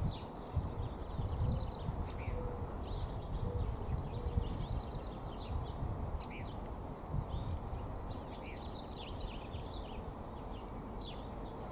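Many small birds chirping and twittering, with short high calls coming thick and fast and overlapping, over a low rumble.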